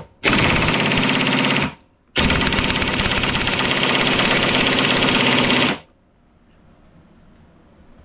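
Impact wrench hammering a rear axle nut down tight, in two runs: one of about a second and a half, then after a short pause a longer one of about three and a half seconds.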